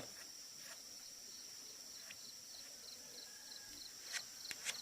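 Insects calling: a steady high-pitched buzz with short chirps repeating about three times a second. A few sharp clicks come near the end.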